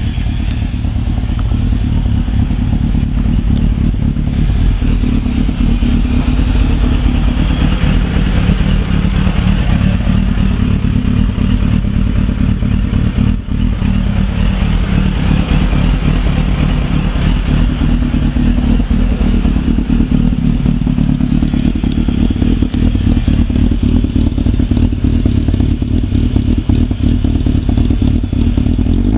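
Suzuki 900 cc motorcycle engine in a Zastava 750 running at a steady speed, with a brief dip about halfway through.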